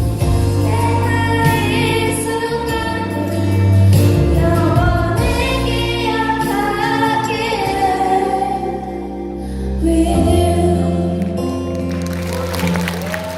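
Singers performing with instrumental accompaniment, ending on held notes; applause begins near the end.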